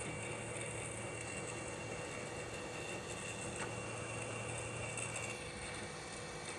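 Hot air rework station blowing steadily on a circuit board during a reflow. A low hum drops away about five seconds in.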